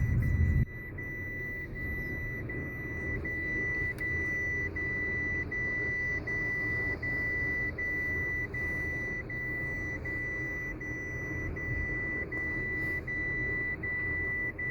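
A car's electronic warning buzzer giving a steady high beep broken by short gaps about every three-quarters of a second, over the low rumble of the car.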